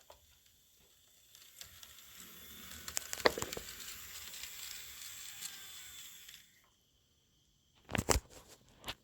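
Kato N scale ES44AC model locomotive running along the layout track: a hissing rattle of small wheels and motor with scattered clicks that swells and then fades away about six and a half seconds in. Two sharp knocks near the end.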